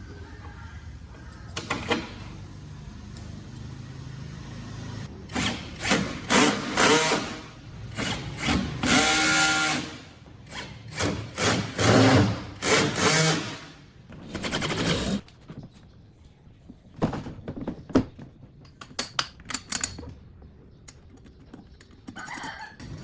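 Workshop tool noise: short, irregular bursts of a power tool, one with a pitched motor whine, among knocks and handling sounds.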